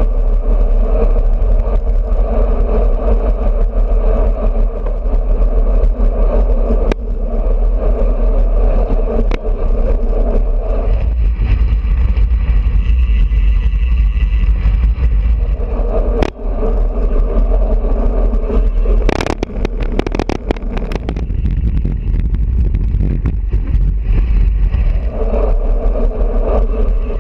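Wind rushing over a bike-mounted GoPro with road and tyre noise while riding, swelling and easing as traffic or speed changes. Scattered clicks, and a burst of sharp rattles about two-thirds of the way through.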